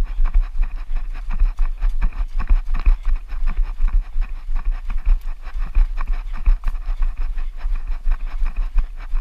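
A runner's steady footfalls, each stride giving a thud and a jolt of rumble on the camera microphone. Wind buffets the microphone throughout.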